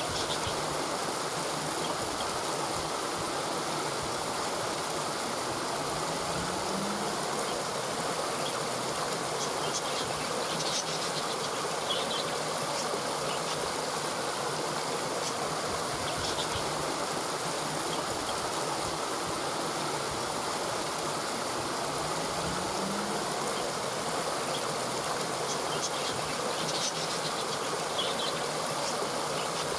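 Steady rush of running water from a stream. A few faint high chirps and a brief low rising tone each come twice, about sixteen seconds apart.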